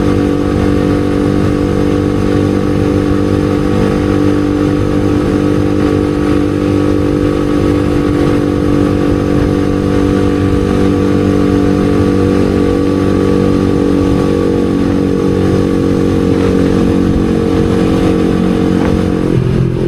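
Yamaha R15 V3's single-cylinder engine running at a steady speed, an even motorcycle engine note, with the pitch shifting just before the end.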